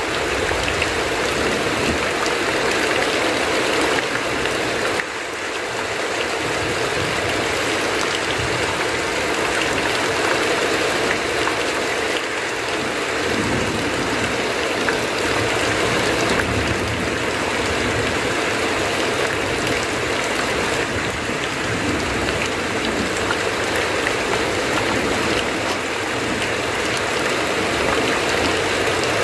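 Heavy rain roaring on a tin roof, with water streaming off the roof edge; a steady, unbroken rush.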